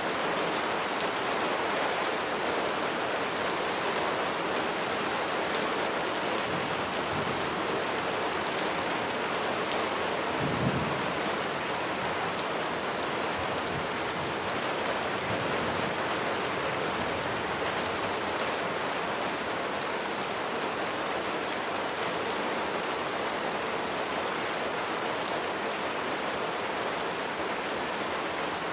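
Steady heavy rain hissing, with sharp ticks of individual drops. A short low rumble of thunder comes about ten seconds in.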